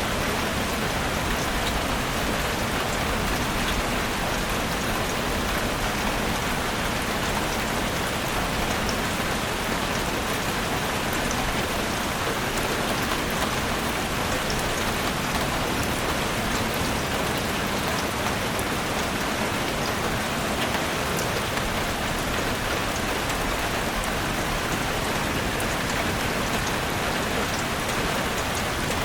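Steady rain falling in a forest, a continuous even hiss with many small drop ticks on leaves and surfaces.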